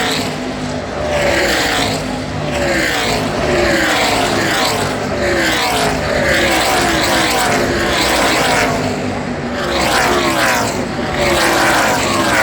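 NASCAR Truck Series race trucks' V8 engines passing one after another at speed, each engine note falling in pitch as it goes by.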